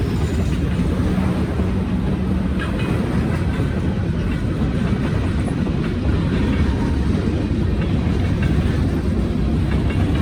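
Long freight train rolling past: a steady low rumble of railcars on the track with light wheel clatter.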